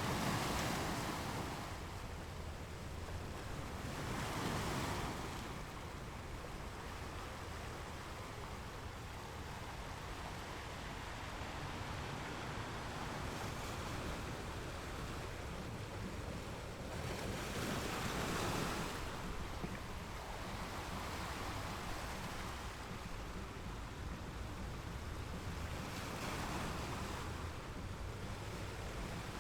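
Ocean waves breaking on a beach: a steady wash of surf with louder swells as individual waves break, several seconds apart, and a low rumble underneath.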